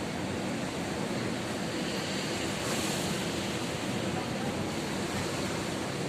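Ocean surf breaking on a beach, a steady rushing wash with a wave surging louder about halfway through.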